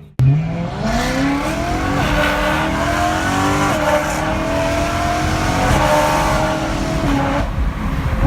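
BMW M3 E92's V8 engine through an HMS exhaust, accelerating hard: it starts suddenly after a brief gap, then rises in pitch, dropping back three times as it shifts up through the gears.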